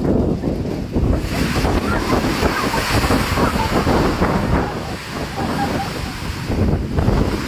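Strong wind buffeting the microphone over a loud, steady rushing noise, which turns brighter and hissier about a second in.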